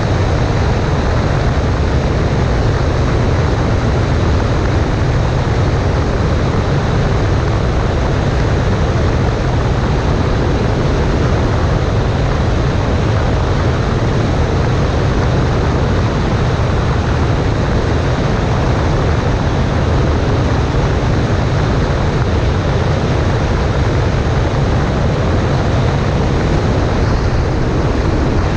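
Cessna 140A in flight: the engine and propeller make a steady, unchanging drone, mixed with the rush of the passing air.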